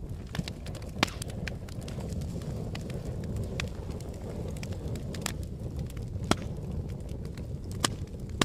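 Fire burning with a steady low rumble and scattered sharp crackles and pops, the strongest pops about a second in, past the middle and near the end.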